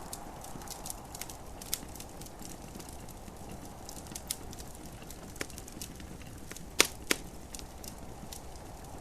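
Wood fire in a fireplace crackling, with irregular sharp pops and two louder snaps about seven seconds in, over a steady soft hiss.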